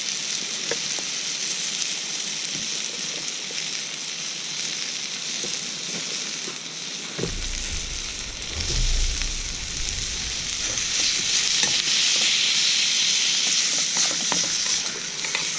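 Beef stir-fry sizzling in a pan, with small clicks and scrapes of stirring. A brief low rumble comes about halfway through, and the sizzle grows louder in the second half.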